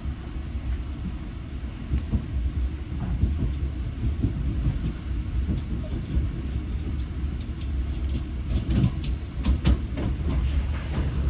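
Interior rumble of a New Jersey Transit commuter train coach moving along the track at speed, steady and low, with a run of sharper clacks near the end.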